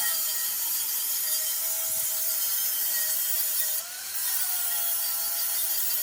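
Abrasive power tool running against a metal wheel rim: a steady grinding hiss over a motor whine. The whine sags and recovers, and the sound drops off briefly just before four seconds in.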